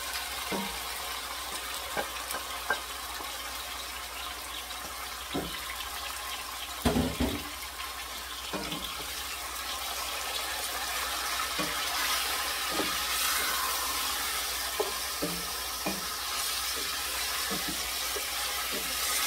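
Marinated chicken sizzling in hot oil in a stainless steel pot, with a wooden spoon stirring and knocking against the pot a dozen or so times; the loudest knock comes about seven seconds in. The sizzle grows a little louder about twelve seconds in.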